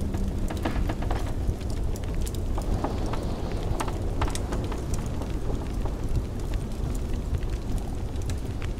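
Wood fire crackling with frequent sharp pops and snaps, over a steady low rumble of blizzard wind.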